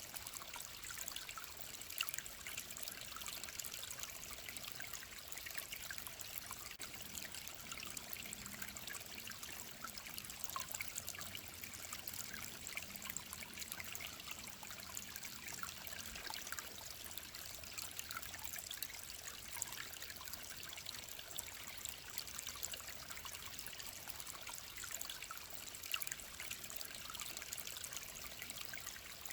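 A small mountain stream trickling and splashing over rocks, a steady bubbling with many small drips and plinks.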